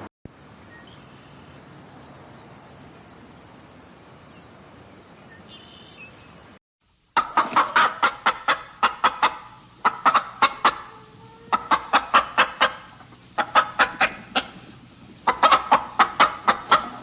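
Chicken clucking in quick runs of sharp clucks, four or five bouts of about two seconds each, beginning about seven seconds in after a stretch of faint background ambience.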